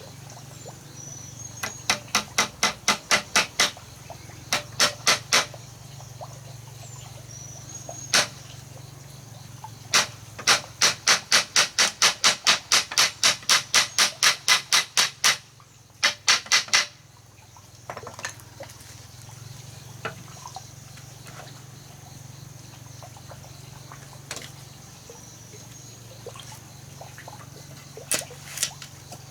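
Runs of rapid hammer blows on wood, about three to four a second, with a long burst of nearly twenty strikes in the middle and single or short runs before and after. Birds chirp faintly in between, over a steady low hum.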